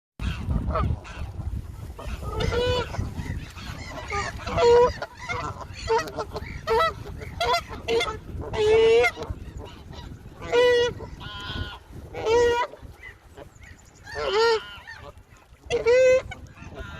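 Geese honking, a long series of loud, short pitched calls, some coming in quick runs of two or three. A low rumble sits under them in the first couple of seconds.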